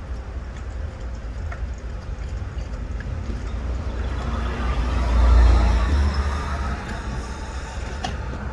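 A road vehicle passing by, growing louder to a peak about halfway through and then fading, over a steady low rumble.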